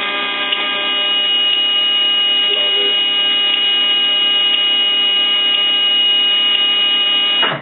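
Steady electrical buzz from a 2007 Blue Bird Vision school bus as the key is held on for a start that fails: the diesel never cranks, and the battery is down to about 10 volts. The buzz carries faint ticks about once a second and cuts off suddenly near the end when the key is let go.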